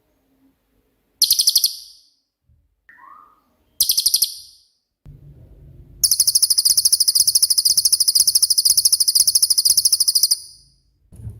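A cililin singing in very rapid, high-pitched trills: two short bursts, a brief lower call, then one long trill of about four and a half seconds.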